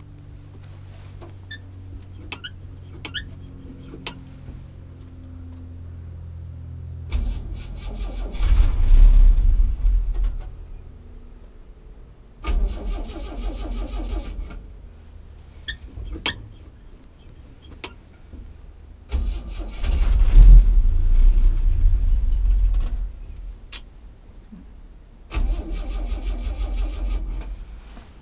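A 1964 Chevy C10's 230 cubic-inch inline-six being cranked over on its starter in four separate tries, each lasting a few seconds, stopping between tries without settling into a steady idle.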